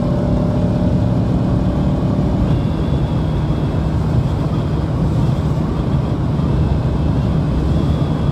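Bajaj Pulsar NS200's single-cylinder engine running steadily at highway speed under heavy wind rush over the microphone.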